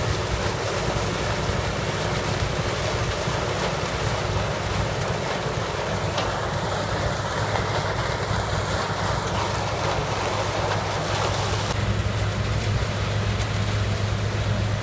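Case 7000 sugarcane harvester's diesel engine and cutting machinery running steadily, a low drone under a broad rushing noise. About three seconds before the end the rushing eases and the low hum grows stronger.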